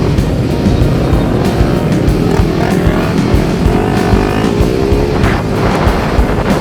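Motorcycle engines running and revving, mixed with background music.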